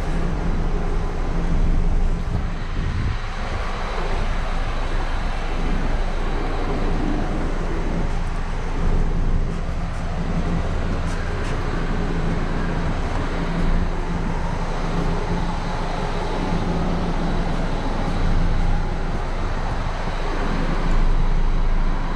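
Steady mechanical hum with a continuous hiss from self-serve car-wash bay equipment running while a car is being washed.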